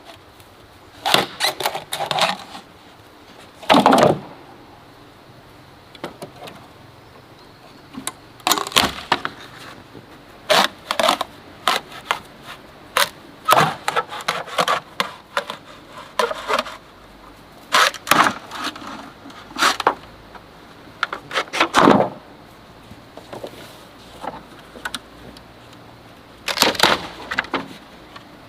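Bamboo being worked by hand: irregular sharp wooden knocks and cracks, some single and some in quick clusters, with pauses of a second or more between them.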